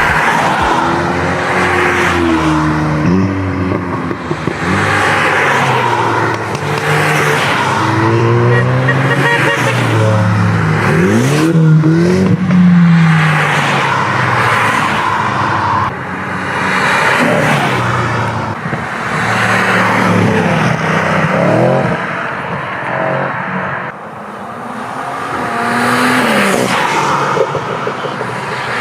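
German sports car engines revving hard and accelerating past, the engine pitch climbing and dropping again and again as they shift through the gears.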